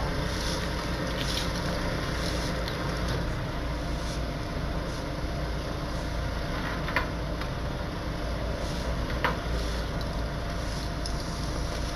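Broken car parts being swept off the road: faint scraping broom strokes and two sharp clinks of debris, over a steady low rumble of an idling vehicle engine.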